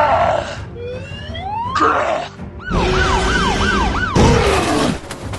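A string of cartoon sound effects: a falling glide, then a rising whistle, then a fast warbling wail like a siren about five times in just over a second, then a noisy burst with a falling tone.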